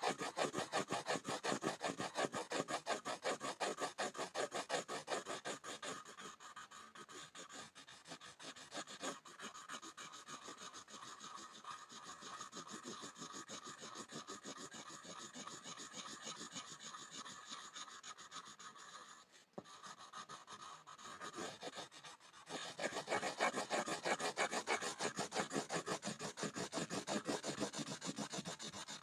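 Graphite pencil scribbling on a board: fast back-and-forth scratching strokes. Heavier for the first few seconds, lighter from about six seconds in with a brief break about two-thirds through, then heavy again for the last several seconds.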